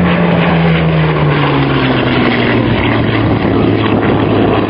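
Hawker Hurricane's Rolls-Royce Merlin V12 engine running loud in a flypast, its note dropping in pitch about a second in as the fighter passes.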